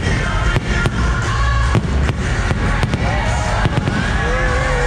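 Fireworks display: a string of sharp aerial bursts, two or three a second, over music.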